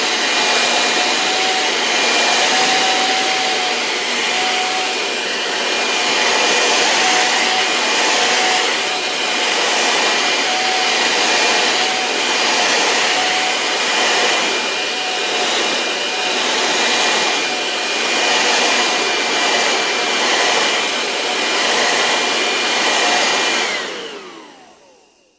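Vacuum cleaner running steadily with a high whine, swelling slightly about every two seconds. Near the end it is switched off: the whine falls in pitch as the motor spins down and the sound dies away.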